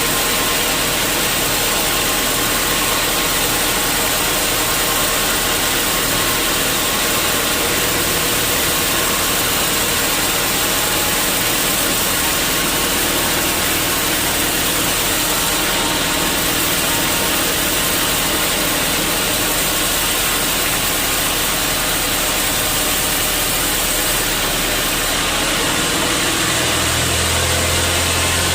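Sawmill machinery running steadily, a loud even noise with a faint engine hum underneath; a deeper hum comes in near the end.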